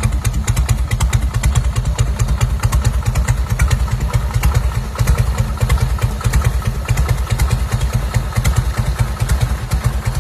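Motorcycle engine idling, its exhaust giving a loud, steady, even pulse.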